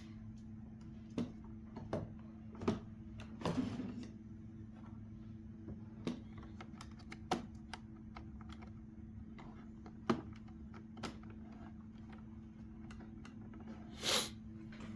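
Computer keyboard and mouse clicks, a dozen or so sparse taps at uneven intervals, over a steady low hum. Near the end there is a longer, louder burst of noise.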